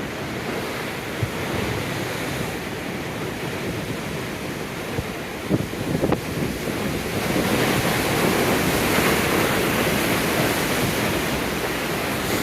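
Ocean waves breaking and washing over rocks into a rock pool, with a few sharp slaps near the middle; the surge grows louder a little past halfway through.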